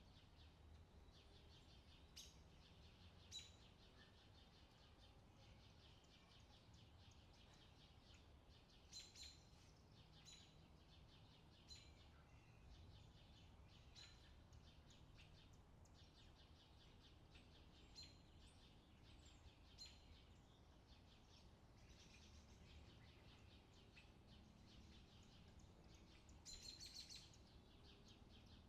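Faint outdoor summer ambience: short bird chirps every few seconds, with a quick run of them near the end, over a steady high hiss.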